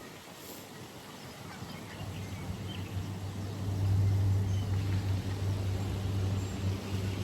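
A low, steady engine hum builds about two seconds in and holds, over faint bird chirps.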